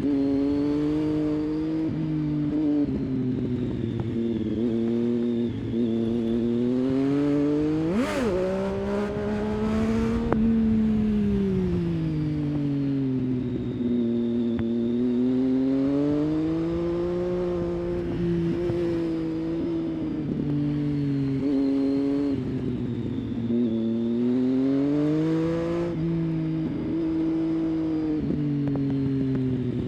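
Triumph Street Triple 675's three-cylinder engine running through a series of bends, its pitch repeatedly rising and falling as the rider accelerates out of curves and rolls off into the next. A quick sharp rev blip comes about eight seconds in.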